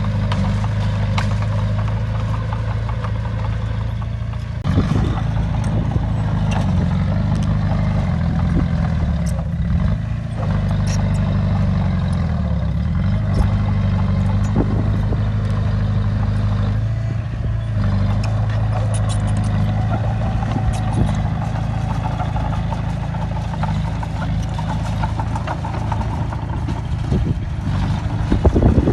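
Heavy diesel engine of a bulldozer working under load, its note shifting up and down a few times, with scattered metallic clanks and clatter from the machine.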